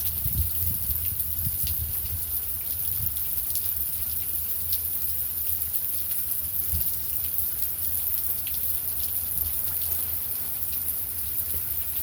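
Steady heavy rain, a constant hiss with scattered drops tapping close by and a low rumble underneath.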